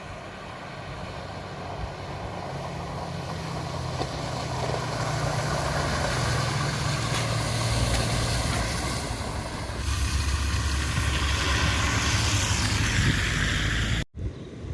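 A motor vehicle's engine running with a steady low hum, growing louder over the first few seconds, mixed with wind rumble on the microphone; the sound breaks off suddenly near the end.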